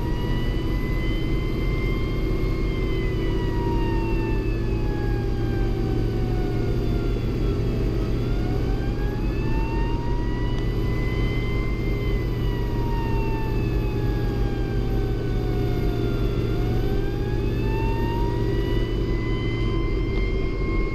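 Fire engine's wail siren slowly rising and falling in pitch, one full sweep about every eight or nine seconds, over the steady low running of the truck's engine.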